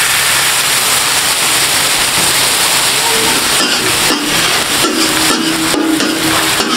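Yogurt and fried chicken sizzling hard on a hot iron tawa, a steady loud hiss. From about halfway, a metal spatula strikes and scrapes the griddle repeatedly.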